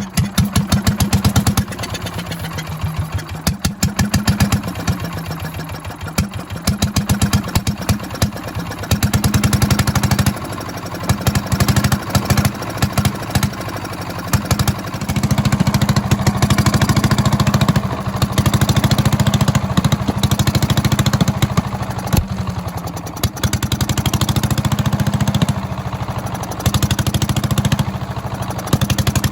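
1932 Fairbanks-Morse Z Style D 'salt block' single-cylinder, throttle-governed stationary engine running, firing in a steady, rapid beat.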